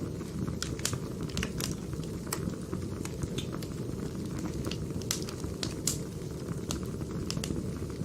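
Firewood burning: a steady low rush of flame with irregular sharp crackles and pops, a few a second.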